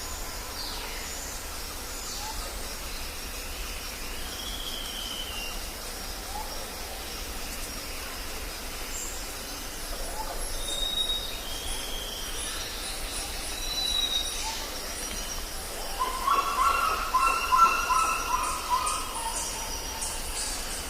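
Jungle ambience: birds calling with short whistled notes over a steady high hiss. A louder, lower repeated call comes in near the end.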